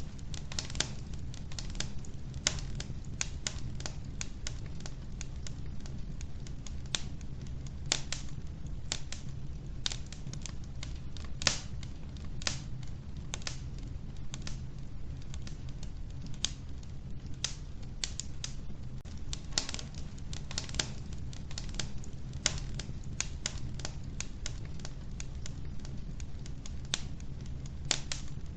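Wood fire crackling in a wood-burning stove: irregular sharp pops and snaps, several a second, over a steady low rumble of burning.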